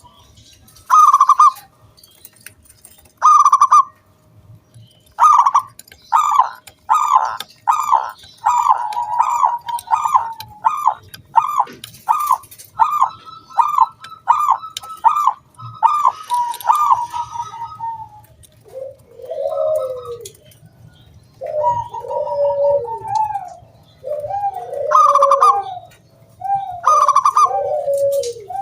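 Zebra dove (perkutut) cooing: a few separate notes, then a long quick run of short repeated coos, then slower, lower two-part coos that fall in pitch near the end.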